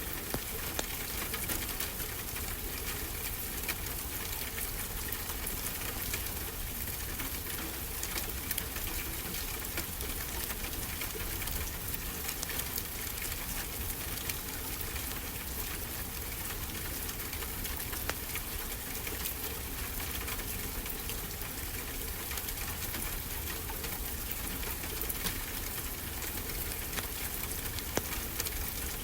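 Wood fire crackling with frequent small pops over a steady wash of ocean waves.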